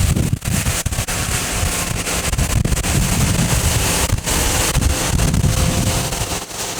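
Strong wind gusting over the microphone: a loud, buffeting low rumble with a steady rushing hiss, rising and falling in gusts.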